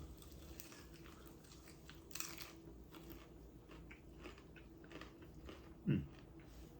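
A person eating and chewing KFC food close to the microphone, with faint scattered crunches and mouth clicks, a louder crunch about two seconds in and a short murmur near the end.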